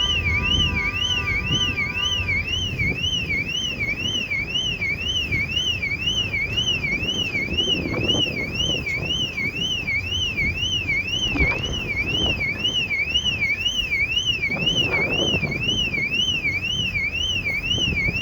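A car ferry's electronic alarm sounding a continuous warbling tone that sweeps up and down about twice a second, then cuts off suddenly at the end. Beneath it runs a low rumble with a few dull thuds.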